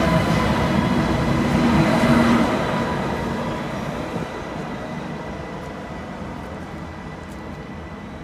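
A train running past on the tracks, loudest in the first two and a half seconds and then slowly dying away as it moves off.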